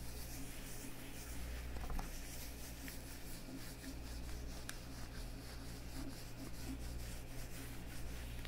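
Leather gloves on hands, rubbing and flexing softly, with a couple of small sharp clicks, over a steady low hum.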